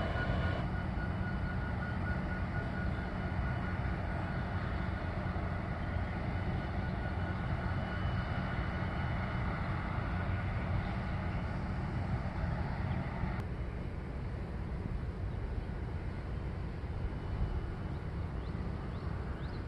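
A distant Union Pacific train approaching, led by a diesel locomotive: its horn cuts off within the first second, then a steady low rumble. The rumble gets duller about two-thirds of the way through.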